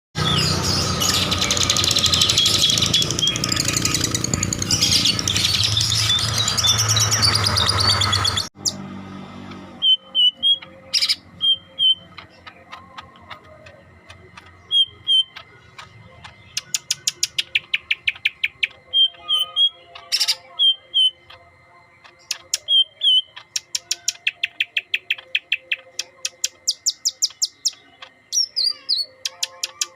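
A cucak hijau kepala kuning (green leafbird) sings in short doubled whistles and rapid chattering trills, repeated many times. It is preceded by a loud, dense burst of sound that cuts off suddenly about eight seconds in.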